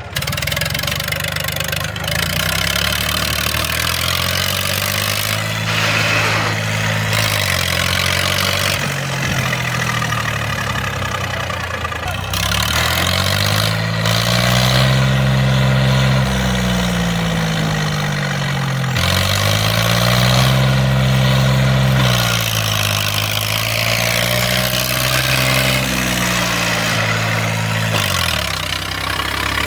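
Diesel engine of an Eicher 333 tractor, revved up and let fall back several times, each rise held for a few seconds.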